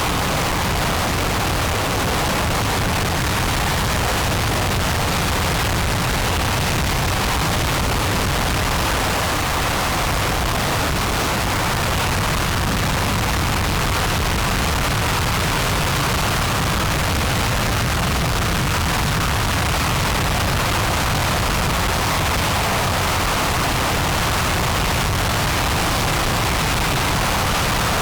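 RS-25 liquid-hydrogen, liquid-oxygen rocket engine firing in a ground hot-fire test: a steady, unbroken rush of noise that holds at one level throughout.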